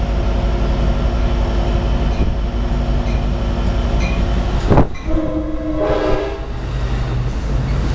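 A train rumbling steadily. Just before five seconds in there is a sharp loud burst, followed by a short horn blast of several tones at once that lasts about a second and a half.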